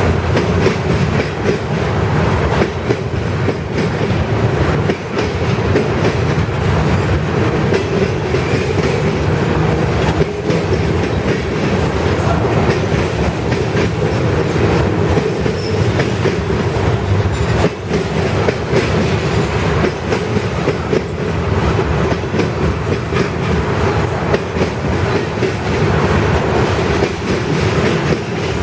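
Freight train cars rolling past steadily, the wheels clacking over the rail joints under a continuous rumble.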